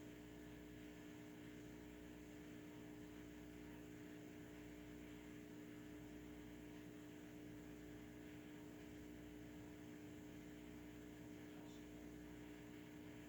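Near silence: a steady low electrical hum over faint hiss.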